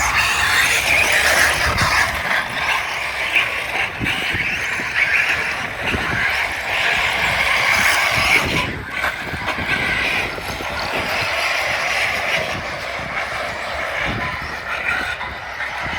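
Electric radio-controlled cars being driven: a continuous whir of motors and drivetrains that swells and fades with the throttle, with scattered knocks and crunches from the chassis and tyres.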